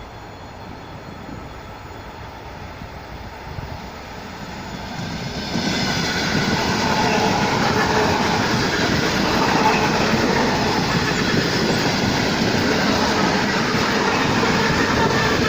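Russian suburban electric train (elektrichka) passing close by, its wheels clattering on the rails. The noise jumps up sharply about five seconds in and then stays loud and steady.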